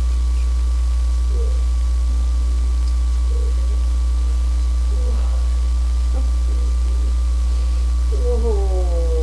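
Steady low electrical hum, with a fainter steady higher whine above it. A few faint, short pitched murmurs come through it, and near the end a longer pitched sound that falls in pitch.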